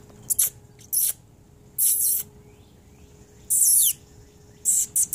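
Small birds chirping: a few short high-pitched chirps, one sliding down in pitch about three and a half seconds in, then a quick run of chirps near the end.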